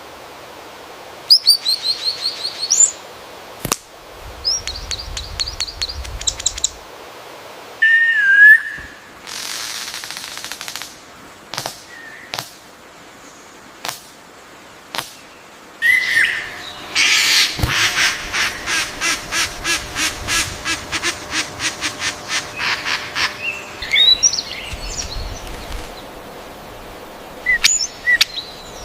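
Several birds calling and singing: quick runs of high chirps, short slurred whistles, and a long run of even, rhythmic notes, about four a second, through the middle.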